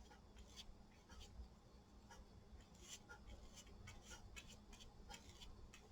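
Faint soft taps and short swishes of a brush spreading gel medium over napkin-covered paper.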